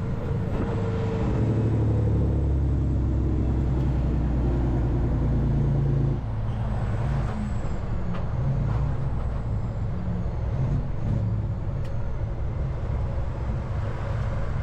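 Peterbilt semi-truck's diesel engine running while driving, heard inside the cab as a steady low drone; the engine note drops and changes about six seconds in.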